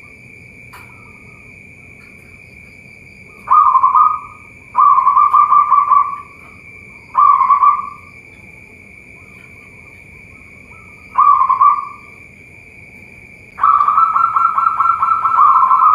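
Zebra doves (perkutut) cooing: four short, rapidly pulsed coo phrases, then a longer unbroken run of cooing starting near the end.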